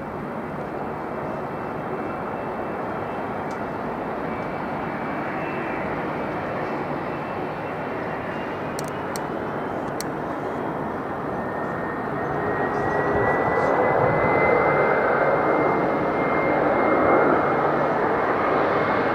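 Jet airliner engines on approach to land, a steady rushing noise that grows louder about two-thirds of the way through, with a thin engine whine slowly rising in pitch.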